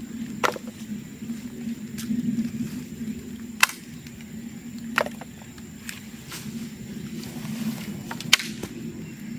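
Bamboo bonfire crackling over a steady low rumble, with several sharp pops and cracks, as heated hollow bamboo stems burst. The loudest pops come about three and a half and eight seconds in.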